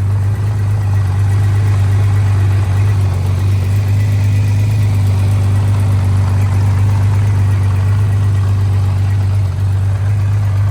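Honda CBX1000Z's air-cooled inline-six engine idling steadily through a non-original exhaust, with no revving.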